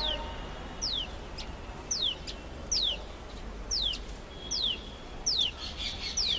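Common tailorbird calling: a sharp, high note falling in pitch, repeated evenly about eight times, a little more than once a second.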